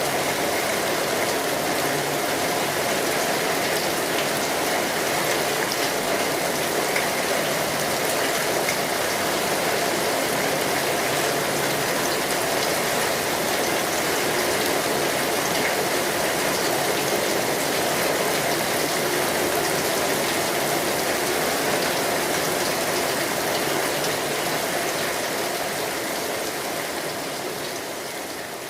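Steady rainfall, a dense even hiss flecked with small drop taps, fading down over the last few seconds.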